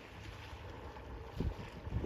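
Sea waves washing with wind buffeting the microphone in low gusts, the strongest about one and a half seconds in and again near the end.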